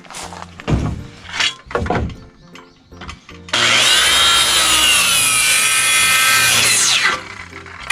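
Electric circular saw cutting through wood for about three and a half seconds, its motor whine sagging under load and rising again as the cut finishes, then stopping. Before the cut, a few short knocks and scrapes of wood being handled and set in place.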